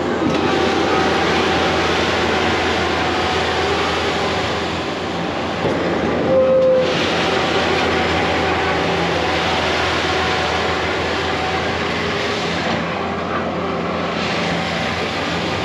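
Compact track loader running steadily under work, with a high whine over the engine. A short, louder squeal comes about six and a half seconds in.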